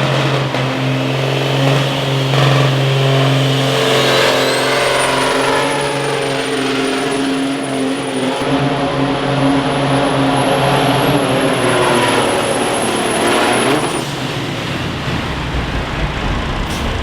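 Pulling vehicle's engine running hard at a steady high pitch under load on the sled, with a high thin whistle climbing in about four seconds in. About fourteen seconds in the engine and whistle drop away as the run ends.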